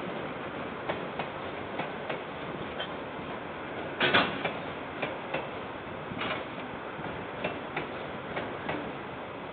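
KiwiRail train passing and moving away, its wheels clicking and clanking irregularly over the rail joints, with one louder clank about four seconds in, over a steady hiss.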